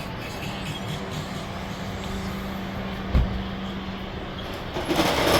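Street traffic: vehicle engines humming steadily, a low thump about three seconds in, and a louder rushing noise near the end as a vehicle goes by.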